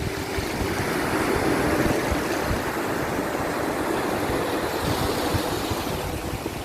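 Ocean waves washing in a steady rush that swells during the first couple of seconds. Faint soft held notes of a calming melody lie underneath.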